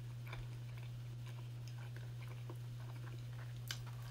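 Soft chewing and small wet mouth clicks of someone eating a chili cheese dog, over a steady low hum.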